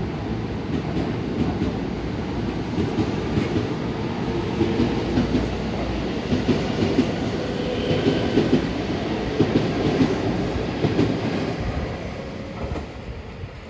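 A train running along the track, its wheels clacking over rail joints, the sound dying away near the end.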